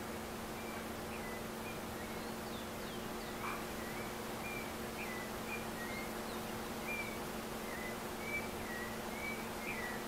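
A bird chirping: a string of short, high chirps, one or two a second, with a few higher notes mixed in, over a steady low hum and hiss.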